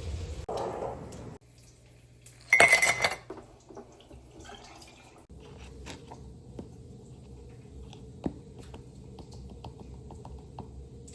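Dishes and cutlery clinking, with one loud ringing clink about two and a half seconds in, then light scattered clicks and taps.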